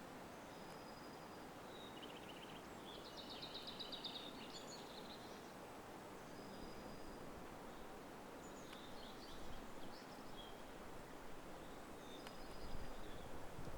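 Songbirds calling in a spring forest: short high whistles and quick trilled phrases here and there over a steady background rush, with a low rumble swelling near the end.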